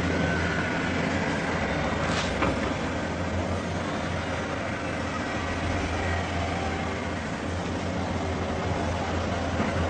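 A steady low rumbling drone with a hissing haze over it, with one sharp click about two seconds in.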